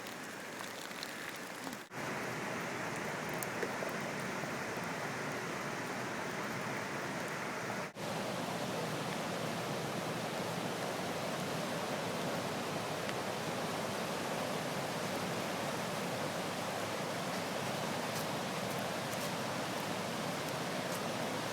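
Floodwater of the swollen Deerfield River rushing in a steady, even roar, with two brief dropouts where the recording cuts.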